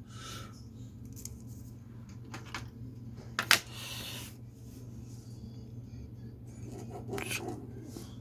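Scratching and rubbing strokes of drawing on paper, with a sharp click about three and a half seconds in, over a steady low hum.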